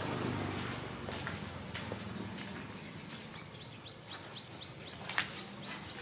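A small bird calling in groups of three short high notes, once near the start and again about four seconds in, with faint chirps in between. A few sharp clicks and rustles sound against the outdoor background.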